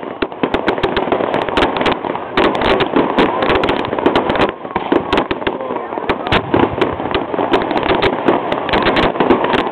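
Fireworks going off in a dense run of bangs and crackles, many every second, with no let-up.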